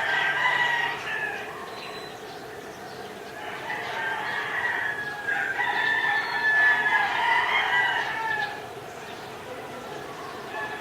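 Roosters crowing: one crow ends about a second in, then more crowing runs for several seconds from about three and a half seconds in.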